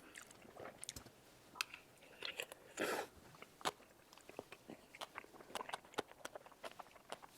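Close-miked chewing of a mouthful of tteokbokki: faint, irregular wet mouth clicks and chewing sounds, with a slightly longer, louder chewing noise about three seconds in.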